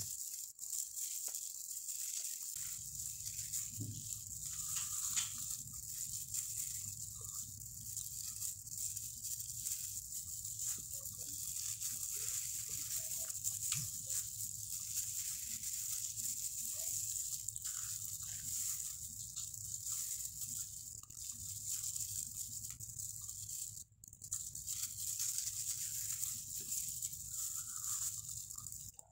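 Close-miked eating sounds of a person chewing tilapia: irregular wet chewing and small mouth clicks and smacks, over a steady hiss. A low hum comes in a couple of seconds in.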